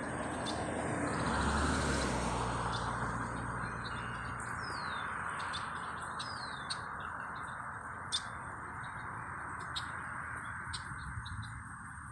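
Outdoor background of steady rushing noise, with a low rumble in the first few seconds; a bird gives two short falling chirps around the middle, and faint sharp ticks come now and then in the second half.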